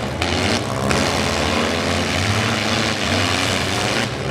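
Several four-cylinder demolition-derby cars' engines revving hard together as the cars push and ram one another, wheels spinning.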